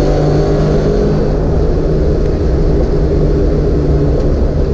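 1988 Ford Mustang's engine pulling steadily at about 60 mph under throttle, heard inside the cabin over a low road rumble.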